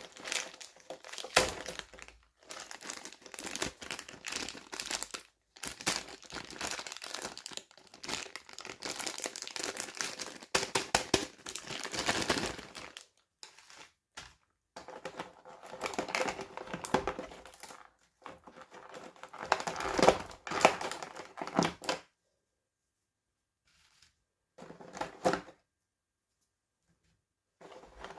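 Plastic toy packaging crinkling and tearing in irregular bursts as it is unboxed, with two short silent gaps near the end.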